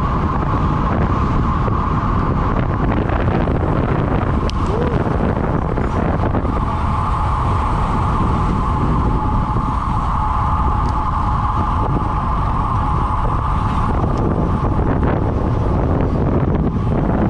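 Steady loud rumble of wind buffeting the microphone, with a steady high hum that swells for several seconds in the middle.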